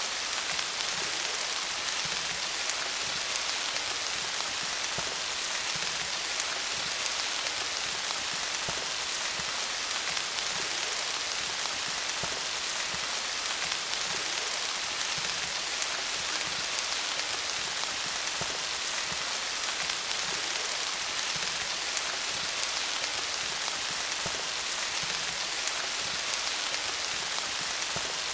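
Steady rain pattering on leaves: a dense hiss of many small drop ticks, with no change over the whole stretch.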